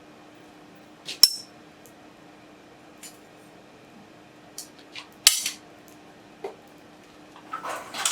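Steel tools and workpieces clinking and clanking against metal in a blacksmith's shop. There is a loud ringing clank about a second in, another about five seconds in, lighter clinks between them, and a quick flurry of clatter near the end, all over a faint steady hum.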